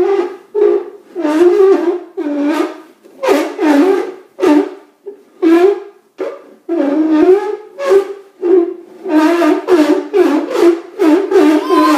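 A toddler making loud wordless vocal noises: a long run of short yells and hoots, one after another with brief gaps, the pitch bending up and down.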